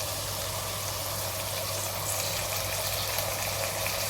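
Vegetables frying in hot oil in a pan: a steady, even sizzle, with a steady low hum underneath.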